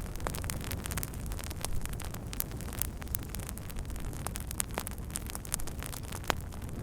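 Wood fire crackling, with many small sharp pops and snaps over a steady low rushing of the flames.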